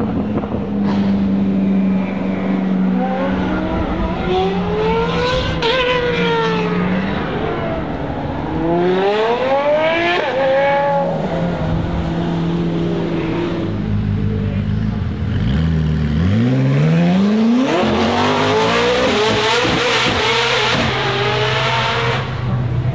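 Supercar engines, among them a Koenigsegg Jesko Absolut's twin-turbo V8, revving and pulling away, the engine pitch gliding up and down twice. A little past two-thirds through, an engine climbs steeply in pitch under hard acceleration and stays loud.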